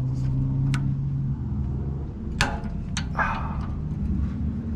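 A vehicle engine running with a steady low drone, and two sharp metallic clicks about halfway through from a wrench working a brake line fitting.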